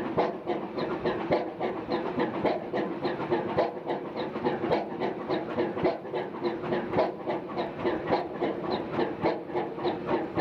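Four 400 HP Snow tandem natural gas pumping engines running together under full load. Their rhythmic clatter of overlapping knocks and clicks sits over a steady hum.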